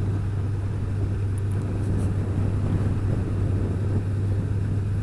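Motorcycle riding at a steady cruising speed: a steady low engine hum under an even rush of wind and road noise, picked up by a helmet-mounted camera and intercom.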